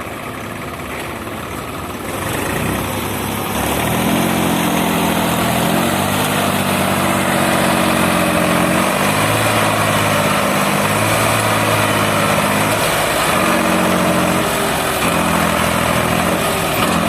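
Heavy vehicle engine running, getting louder about two seconds in and again about four seconds in.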